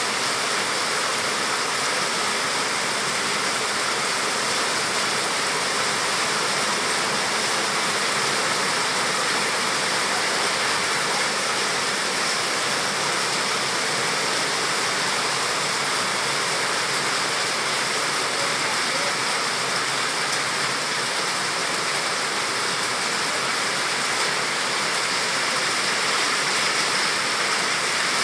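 Heavy tropical downpour, a dense steady hiss of rain that holds at the same level throughout.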